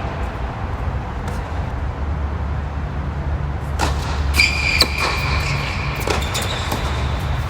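Tennis balls struck with rackets during a doubles rally: several sharp hits about a second apart over a steady low rumble. A high-pitched squeal comes in around the middle of the rally.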